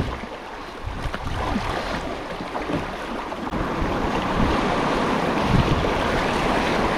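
River water rushing past a kayak, growing louder about halfway through, with wind buffeting the camera microphone.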